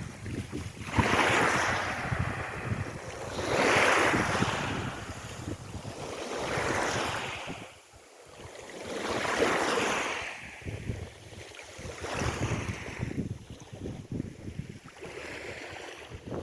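Sea waves washing in rhythmic surges about every three seconds, growing weaker near the end, with wind buffeting the microphone.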